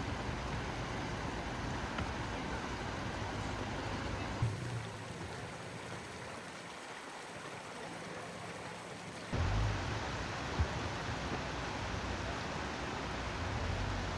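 A steady rushing noise, with wind rumbling and buffeting on the microphone in a snowstorm. The sound changes abruptly, getting louder, about two-thirds of the way through.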